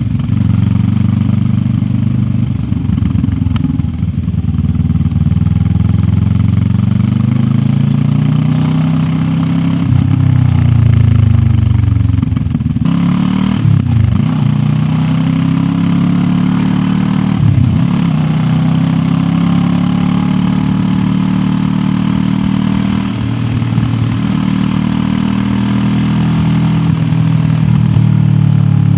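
QJ Motor SRT 700X's parallel-twin engine running under way, its pitch rising and falling with the throttle. The pitch dips sharply twice, a little under halfway through and again a few seconds later.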